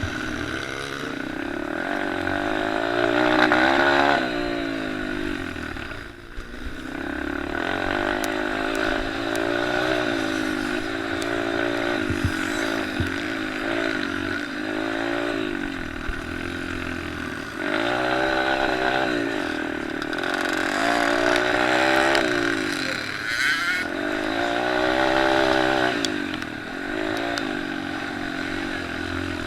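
Small motocross and pit bike engines revving hard and backing off again and again as the bikes ride the track, several engines overlapping at different pitches. The sound drops away briefly about six seconds in.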